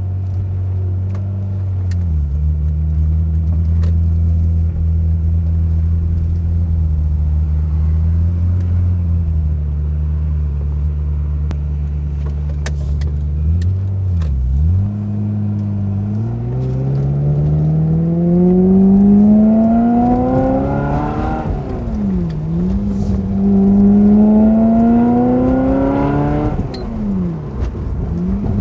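Ferrari F355's V8 breathing through a Kreissieg aftermarket exhaust. It holds steady revs for about half the time, then accelerates through the gears of the manual gearbox: the pitch climbs in long rising sweeps, each cut by a quick drop at a gear change, three times.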